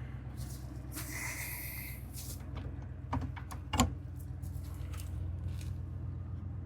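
Tow truck engine running steadily as a low hum, with a few sharp knocks a little past the middle.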